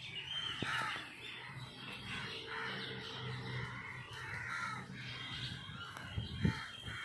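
Birds calling over and over, with a low hum underneath and a single thump about six and a half seconds in.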